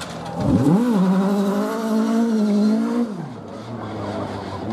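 Rally car engine at high revs: the note dips and climbs back about half a second in, holds high and steady, then drops sharply just after three seconds in as the driver lifts off.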